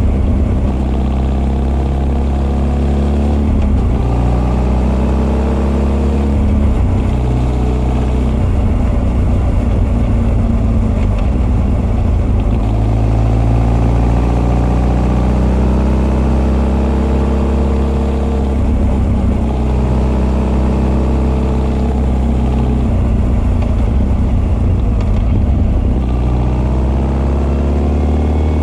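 Honda CB1300 SF's carbureted inline-four, with Keihin FCR41 carburettor intake and an r's gear Wyvern exhaust, running on the move. Its note rises in pitch several times under acceleration and drops back between pulls.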